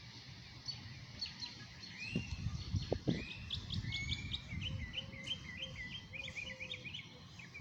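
Small birds chirping. From about four seconds in there is a quick series of short, repeated high notes.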